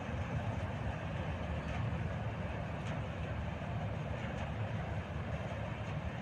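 Boat engine running on a river, a steady low rumble.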